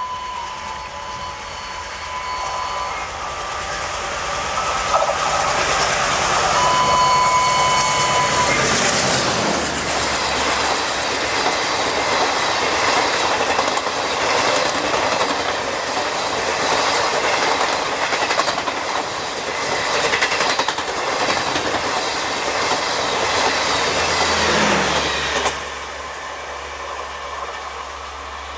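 ALCO WDM-3A diesel locomotive's horn: one blast fading out about three seconds in, then a second short blast a few seconds later as the train nears. Then the express train passes at high speed, a loud dense rush and rattle of the wheels and coaches for about fifteen seconds that cuts off suddenly as the last coach goes by.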